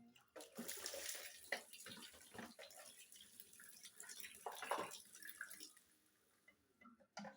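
Tap water running into a kitchen sink while dishes are washed, with knocks and clinks of dishes. The water stops about six seconds in.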